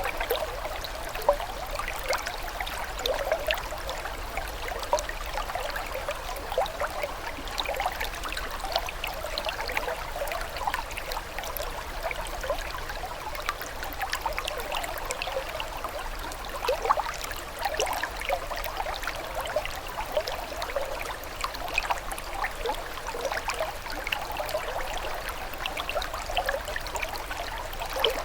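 Shallow stream water trickling and splashing steadily, with many small bright drips and gurgles over a continuous rush.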